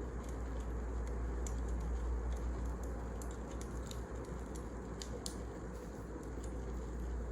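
Wood fire burning, with irregular sharp crackles and pops over a steady low rumble of flames.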